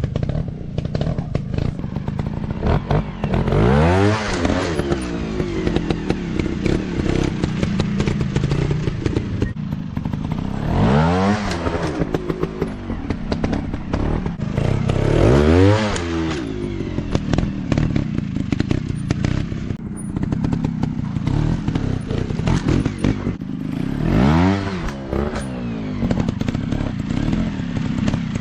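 Dirt bike engines running on off-road trail practice, rising and falling in pitch as they rev up and back off about four times, with a constant clatter of short knocks and rattles over the engine note.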